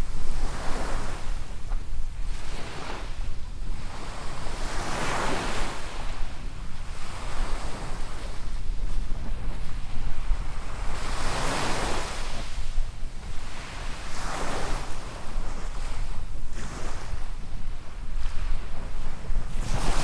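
Small waves breaking and washing up a sandy beach, a new wash swelling and fading every few seconds, strongest about five and twelve seconds in. Wind buffets the microphone as a steady low rumble underneath.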